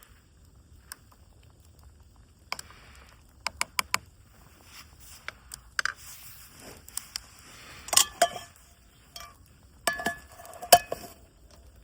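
Eating utensils clinking and scraping against cookware: a scatter of sharp taps, with two louder clinks that ring briefly, one about two-thirds through and one near the end.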